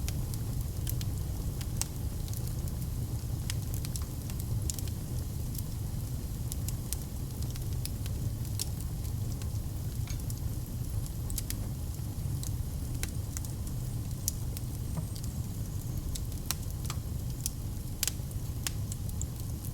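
Wood fire burning in a fireplace: a steady low rumble with irregular sharp crackles and pops of the burning logs scattered throughout.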